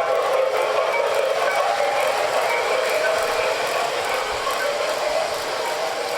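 Model train running along its track: a steady whir of the locomotive's motor and gears with the clatter of wheels on rail.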